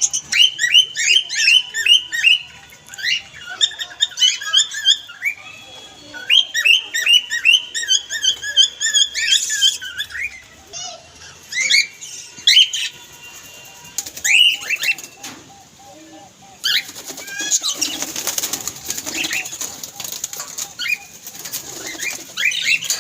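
A pet parrot calling in quick runs of short, high chirps that bend up and down. Near the end come several seconds of noisy rustling.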